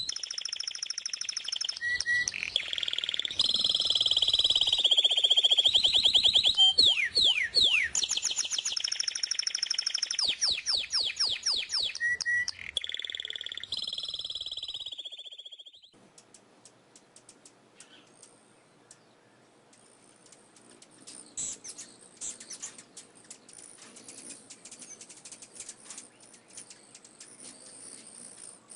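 Songbird song: fast trills and whistled notes sliding up and down, loud for about the first fifteen seconds. It then drops off suddenly to faint, high chirping and scattered clicks.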